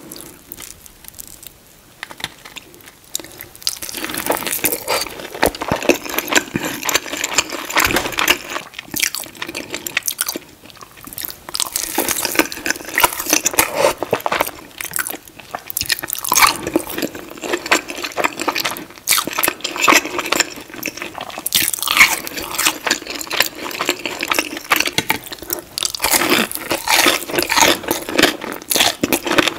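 Close-miked eating: crunchy bites and wet chewing of Wingstop fried food, a dense run of crackles and clicks that starts sparse and fills in after about four seconds.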